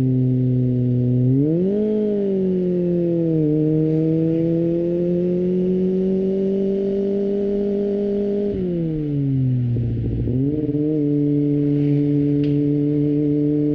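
Kawasaki ZX-25R's 250cc inline-four through an Akrapovic exhaust, heard onboard while riding. The engine note climbs sharply about two seconds in and drops back, rises slowly for several seconds, then falls away as the bike slows past the middle, picks up briefly and holds steady near the end.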